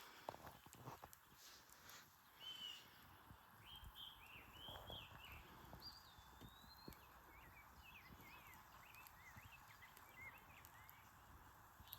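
Faint birdsong, a string of short chirps and whistles, over the steady rush of a small stream, with a few light clicks near the start.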